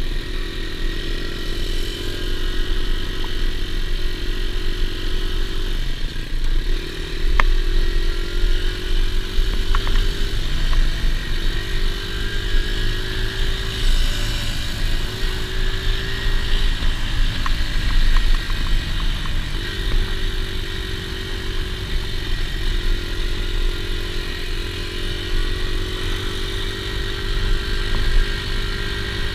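Dirt bike engine running under way, its note climbing in stretches of several seconds and dropping back as the throttle and gears change, over a heavy low rumble.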